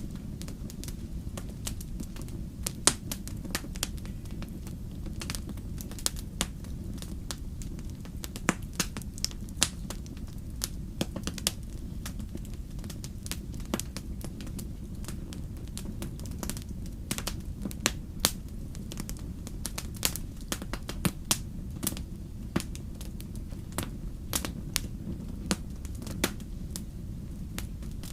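Wood fire crackling: irregular sharp pops and snaps over a steady low rumble of the burning.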